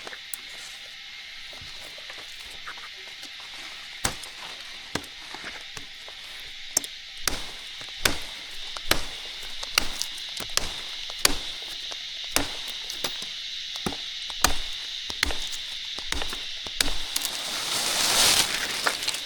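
Repeated chopping strikes into wood, about one a second, beginning a few seconds in, over a steady high-pitched hiss. A louder rushing noise swells briefly near the end.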